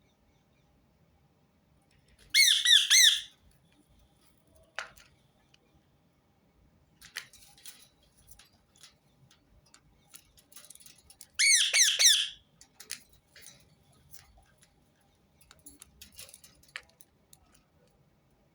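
Rose-ringed parakeet (Indian ringneck) giving two loud, harsh, trilled screeches about nine seconds apart, each lasting about a second. Soft clicks and short chirps come in between.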